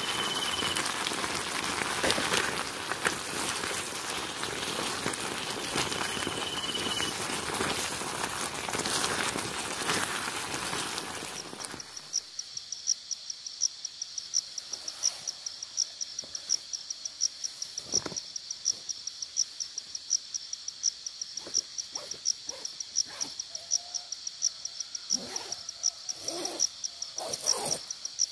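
Steady hiss of rain for about twelve seconds, then a sudden change to a night chorus: an insect chirping high and evenly about three times a second, with scattered soft knocks and rustles near the end.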